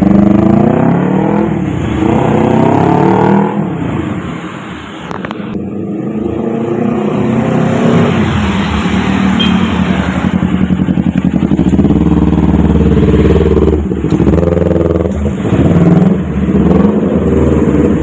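Kawasaki Ninja 250 fitted with a straight-through racing exhaust, revving hard. The engine note climbs and falls several times, dips to a quieter, lower note about five seconds in, then holds a long steady high note before climbing again.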